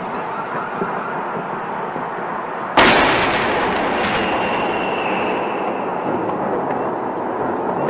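A steady hiss, then about three seconds in a sudden loud boom that dies away slowly over the next few seconds, with a faint ringing tone in the tail.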